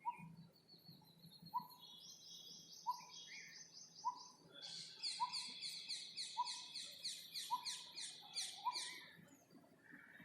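Birds calling: one repeats a single short low note about every second and a half, while another gives a high rapid trill, then a louder run of quick high chirps from about four to nine seconds in.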